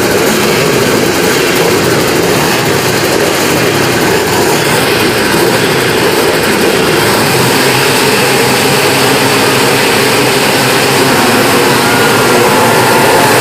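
Engines of several twin-shock and classic motocross motorcycles running hard together in a continuous, dense, loud engine noise. Near the end one engine's pitch rises as it revs up.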